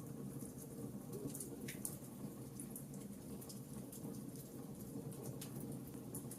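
Fireplace fire crackling: scattered small sharp pops and ticks over a low, steady rumble of flames.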